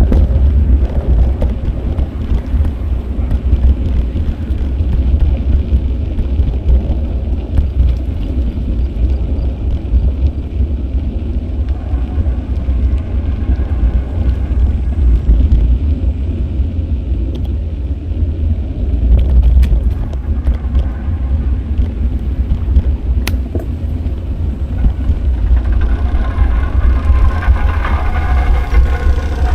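Steady low rumble of wind buffeting the microphone of an action camera riding on a moving bicycle, mixed with street traffic. A sound with several higher pitches comes in near the end.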